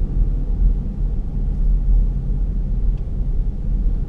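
Steady low road and drivetrain rumble inside a 2011 Ford Flex's cabin, coasting at about 15 mph off the throttle, with a faint steady tone above it. This is the dull, high-pitched front-end noise that persists after new hubs and wheel bearings, recent brakes and new tires.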